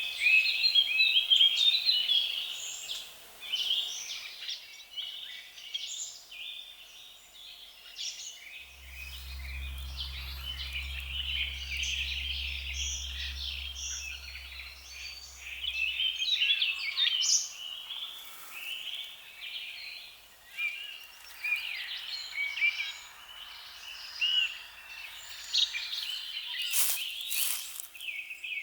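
Many birds chirping and calling together in a dense, continuous chorus. A low steady hum comes in about a third of the way through and stops about seven seconds later, and a couple of sharp clicks sound near the end.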